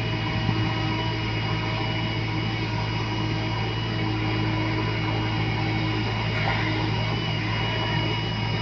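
Heavy diesel engine running steadily at a constant speed, with a thin steady high whine above its low hum.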